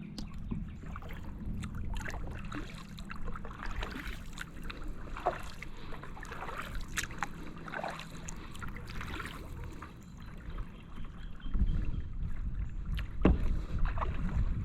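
Kayak paddle strokes: the blades dipping and splashing in calm water, with drips and small splashes between strokes. A low rumble of wind on the microphone runs beneath and grows louder in the last few seconds.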